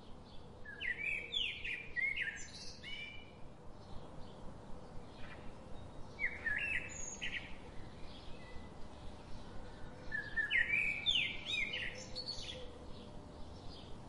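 A small bird chirping in three bursts of quick whistled notes, each note bending up and down in pitch, a few seconds apart.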